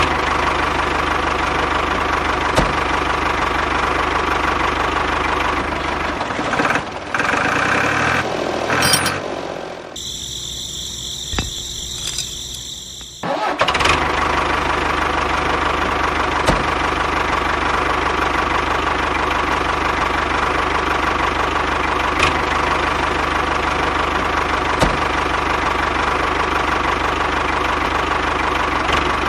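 Small engine running steadily. About ten seconds in, it gives way for some three seconds to a thinner, higher sound, then resumes.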